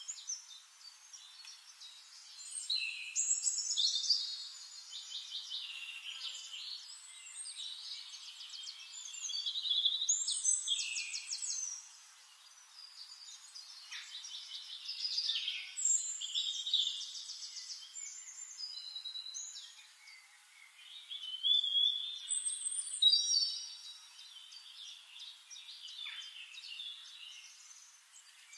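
Songbirds singing: a busy mix of high chirps, whistled glides and fast trills from several birds, swelling and fading every few seconds.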